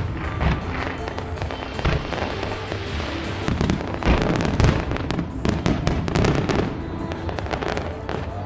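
Aerial fireworks shells bursting in a rapid run of sharp bangs, densest about halfway through, over show music.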